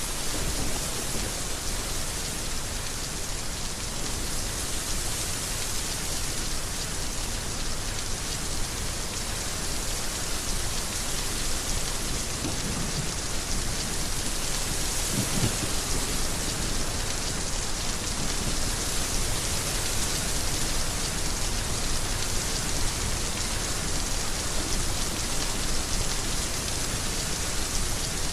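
Heavy rain falling steadily, with a dense even hiss, and a couple of brief low rumbles about halfway through.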